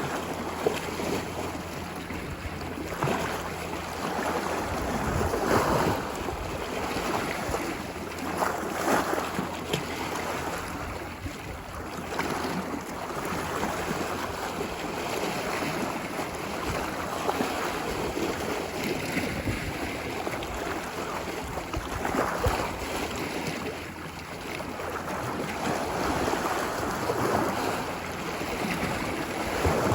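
Ocean waves washing onto a beach: a steady wash of surf that swells and breaks in surges every few seconds.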